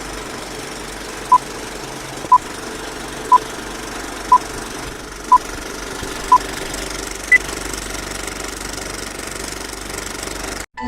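Six short electronic beeps exactly a second apart, then one higher-pitched beep a second later, like a start countdown. They play over a steady mechanical hum.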